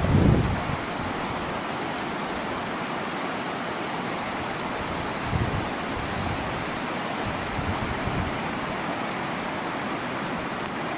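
Steady outdoor rushing noise, with wind buffeting the microphone at the start and again about five seconds in.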